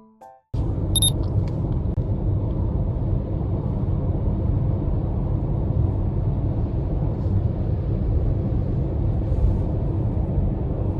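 Steady low road-and-engine rumble of a car driving, with a short high beep about a second in.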